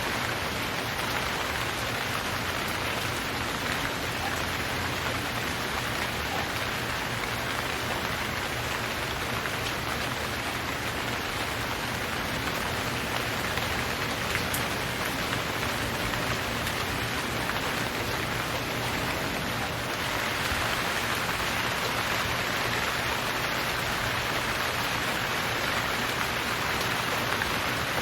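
Steady rain falling, an even hiss of many drops, growing a little louder about twenty seconds in.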